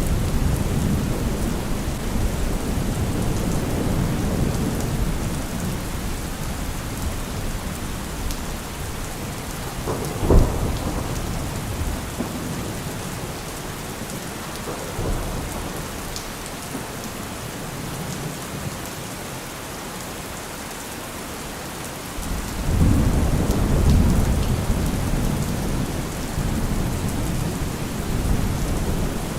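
Steady heavy rain with thunder. A low rolling rumble fades away over the first several seconds, a single sharp crack comes about ten seconds in, and a loud new rumble starts abruptly about three quarters of the way through and rolls on.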